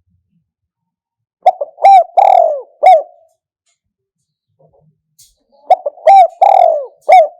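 Spotted dove cooing: two phrases of four coos each, the third coo in each phrase longer and falling in pitch.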